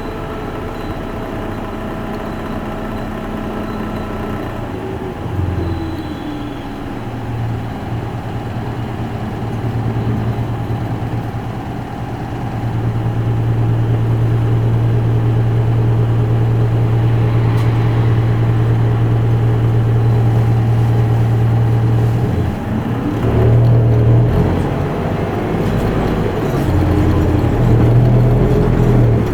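Isuzu Erga Mio city bus's four-cylinder turbo-diesel engine heard from inside the cabin: running low and quieter at first, its note rising about five seconds in, then loud and steady under load through the middle, with the engine note changing again several times near the end.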